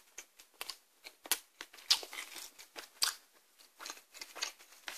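A person chewing a mouthful of rice close to the microphone: a string of small, irregular wet clicks and crunches.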